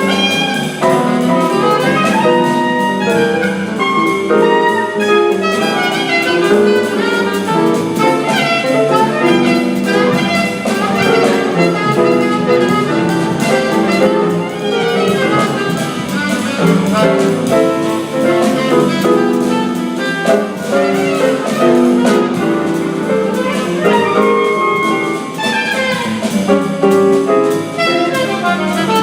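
Live small-group jazz: an alto saxophone plays quick, busy melodic lines over piano and drum kit accompaniment, without a break.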